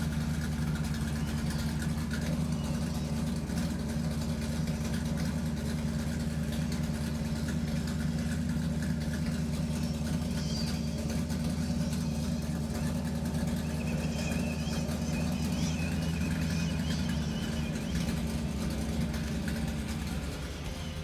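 Electric motor and gear train of a WPL RC crawler running with a steady whirring hum as it drives.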